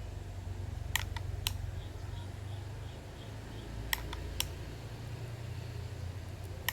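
A steady low hum, with sharp clicks in two groups of three, about a second in and about four seconds in, and one more at the very end.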